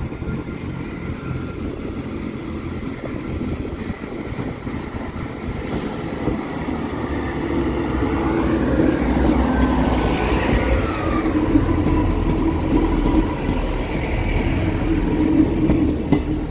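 Transport for Wales Class 158 diesel multiple unit pulling away and passing close over a level crossing. Its diesel engine drone grows louder from about halfway through, and a high whine falls in pitch as the train goes by.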